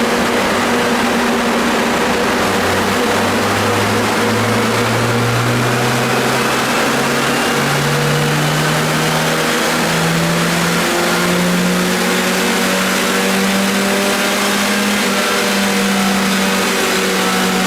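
Car engine running on a chassis dynamometer in a dyno pull. Its pitch climbs steadily as the revs rise over the first ten seconds or so, then holds high, over a loud steady rush of noise.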